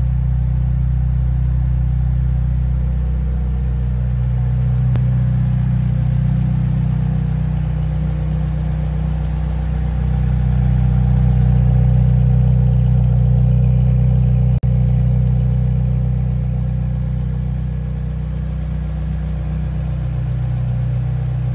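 McLaren Senna's 4.0-litre twin-turbo V8 idling steadily, a deep even hum that grows slightly louder near the middle.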